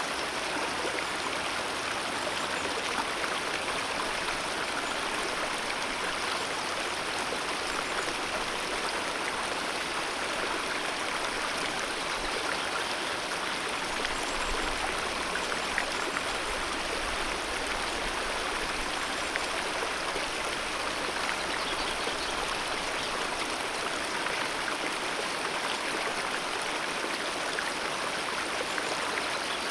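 Alpine mountain river flowing: a steady, even rush of water.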